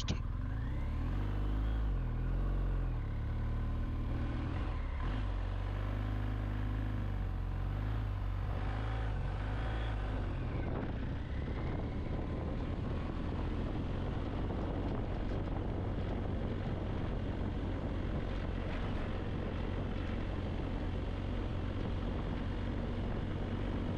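BMW R 1250 GS Adventure motorcycle's boxer-twin engine running under way, with wind and road noise. The engine pitch rises and falls a few times in the first half as the revs change, then holds steadier.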